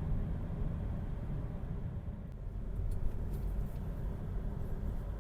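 Car in motion: a steady low rumble of engine and road noise, with a few faint ticks.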